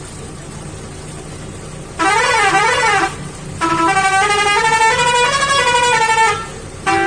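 Truck's musical horn playing a tune over a steady engine hum: a warbling phrase about two seconds in, then a longer melody of stepped notes, and another phrase starting near the end.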